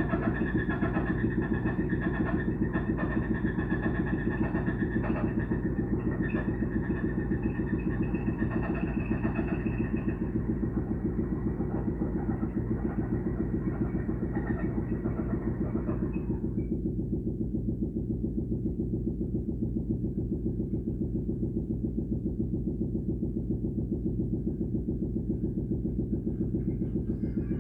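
An engine running steadily with a fast, even pulse. A higher layer of the sound stops about two-thirds of the way through, leaving the low hum.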